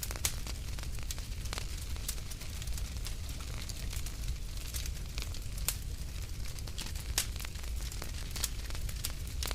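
Wood fire burning in a fireplace, a low steady rumble of the flames with sharp crackles and pops scattered a few times a second.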